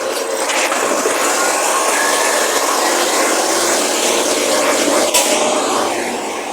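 Recycling garbage truck working, a loud steady mechanical noise with a faint whine in it and one sharp knock about five seconds in.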